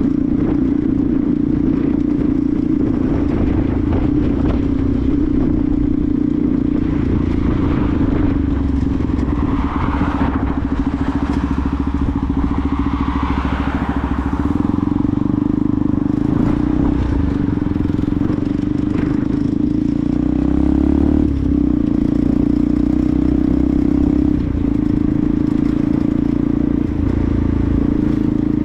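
Benelli TNT 125's small single-cylinder four-stroke engine running steadily under way, with wind on the helmet camera. About a third of the way in, a louder swelling and fading whoosh passes. Around two-thirds of the way through, the engine pitch shifts briefly.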